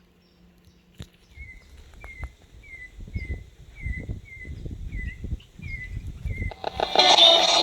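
A bird repeating a short downward chirp, about two a second, over low rumbling on the microphone. Near the end a louder, crackling noise with fast ticks cuts in.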